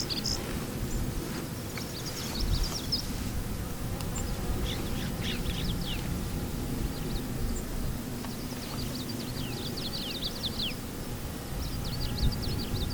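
Songbird song: short, rapid phrases of high chirping notes, repeated four times, over a steady low background rumble.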